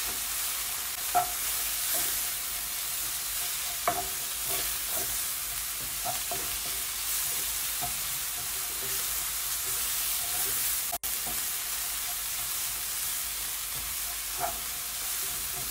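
Diced onions and curry powder sizzling in hot oil in a nonstick wok while a wooden spoon stirs and scrapes through them. A few short knocks come as the spoon strikes the pan.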